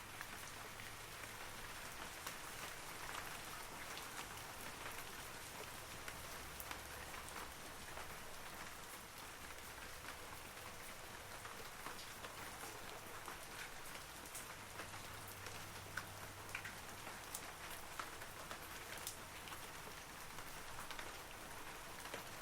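Steady rain falling on forest trees, a continuous patter with many individual drops ticking sharply on leaves and surfaces.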